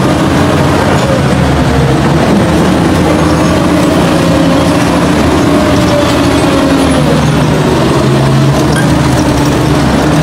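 Forklift engine running steadily, its pitch shifting slightly about six to seven seconds in.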